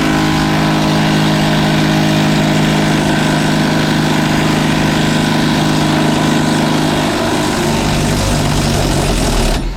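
Power tool, an impact wrench with an 18 mm deep socket, running steadily for almost ten seconds while driving a suspension bolt, then cutting off just before the end.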